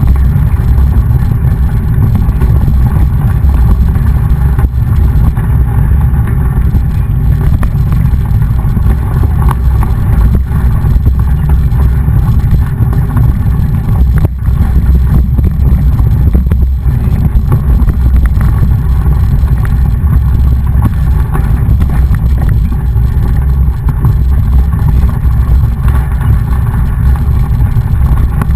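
Heavy wind rumble on the microphone of a camera carried on a moving mountain bike: a steady, loud low buffeting with no pauses.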